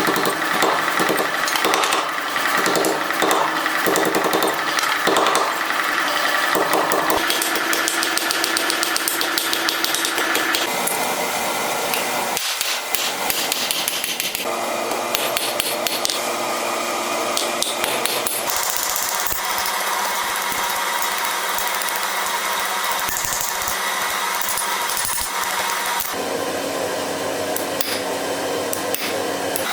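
Power hammer forging small steel pendants, pounding in rapid repeated blows. The sound changes abruptly several times between sections.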